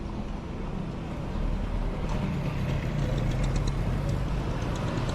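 A motor vehicle engine running, getting louder about a second and a half in.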